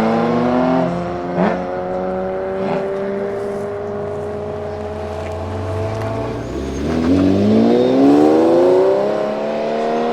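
Supercar engines accelerating hard: the revs climb, shift up and hold a long, slowly rising note, with a couple of sharp cracks early on. Near the end another engine revs up rising again.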